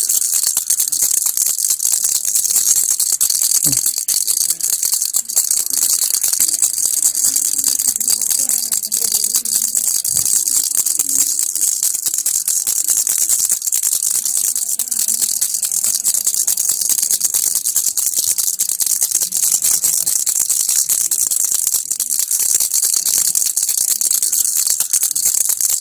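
Plastic baby rattle (kilukki) shaken steadily: a fast, bright, continuous rattling with no pauses.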